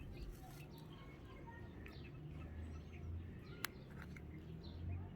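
Birds chirping faintly in short scattered calls over a low hum, with one sharp click about three and a half seconds in.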